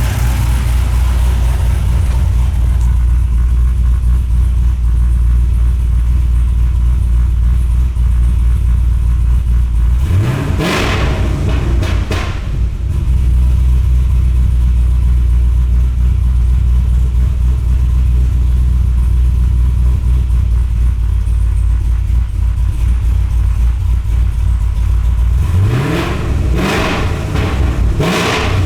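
2009 Cadillac CTS-V's supercharged 6.2L LSA V8 idling steadily, revved up briefly about ten seconds in and twice more near the end.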